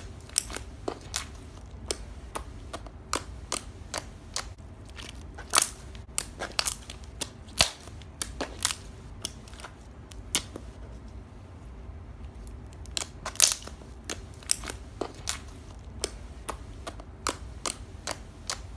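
Slime being popped with a pin: dozens of sharp little pops and clicks at irregular intervals, a few each second.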